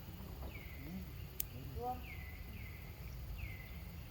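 A bird calling repeatedly with short downward-sliding calls, one after another, over a steady low rumble. A short pitched squeak comes about two seconds in, and one sharp click just before it.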